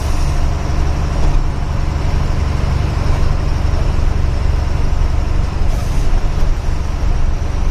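A loaded truck's diesel engine running under way with road noise, a steady low drone, with two brief hisses, one at the start and one about six seconds in.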